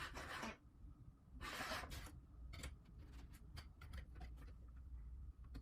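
Faint rustling and a scatter of light, sharp clicks from hands handling wires and small parts on a model helicopter's frame.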